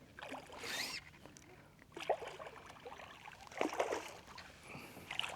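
Textured fly line being stripped in by hand in several quick pulls, rasping through the rod guides with a zipper-like sound as the fly is worked to a redfish.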